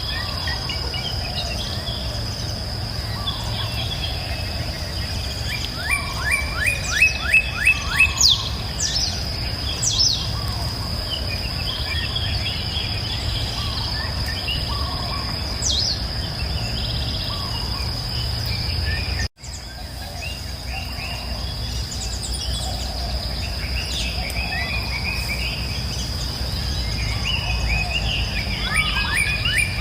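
Songbirds chirping and singing over a steady, high-pitched insect drone, with a low steady rumble underneath. A fast rattling bird trill comes about six seconds in and again at the very end, and the sound cuts out abruptly for a split second about two-thirds of the way through.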